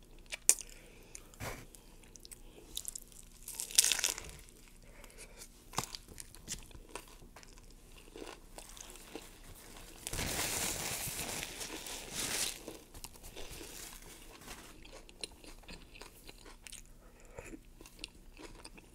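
Close-miked eating of a crunchy taco: crisp crunches of the hard shell with chewing and mouth sounds. There is a louder crunch about four seconds in and a steadier noisy stretch of about two seconds midway.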